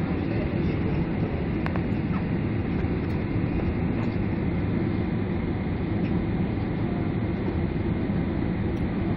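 Steady low rumble of engine and airframe noise inside an airliner's passenger cabin as the plane taxis, with a faint high steady tone above it.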